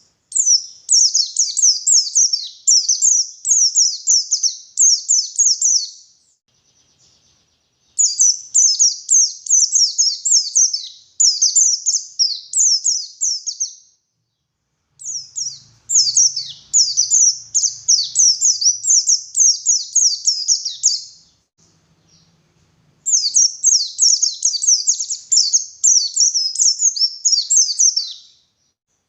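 White-eye (pleci) singing in long, rapid bouts of high chirping notes: four bursts of about five to six seconds each, separated by short pauses.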